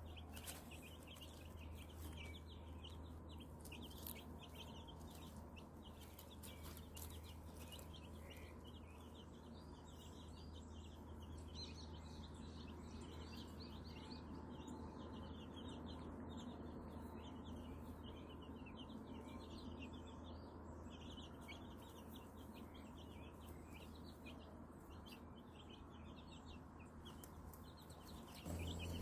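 Newly hatched white silkie chicks peeping: many short, high cheeps crowding one another, faint, over a low steady hum.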